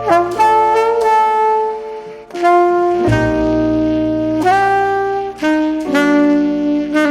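Background jazz music: a saxophone plays a slow melody of held notes over piano.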